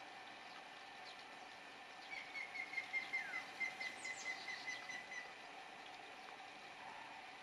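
A bird sings a run of quick, evenly spaced high notes, about five a second, slowly falling in pitch for about three seconds starting about two seconds in, with a few short high chirps. Underneath is a steady, faint background hum.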